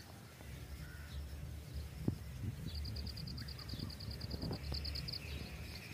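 A bird's rapid trill: high notes repeated about ten a second, starting about halfway in and lasting a couple of seconds, over a low outdoor rumble. A few faint clicks are also heard.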